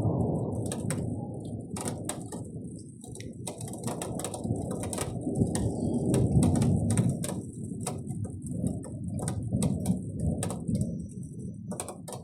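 Thunder rumbling in long rolls that swell and fade, with scattered sharp ticks throughout.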